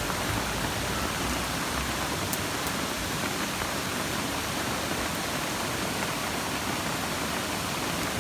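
Campfire burning with a steady hiss, and a couple of faint pops about two and a half seconds in.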